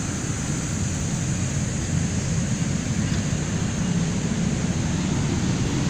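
Steady rushing wind noise and low rumble from air flowing over the microphone of a camera riding on a moving bicycle.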